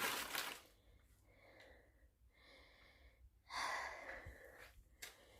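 Short rustles of crumpled packing paper as cats wrestle in it: a brief one at the start and a louder one a little past the middle, with quiet between.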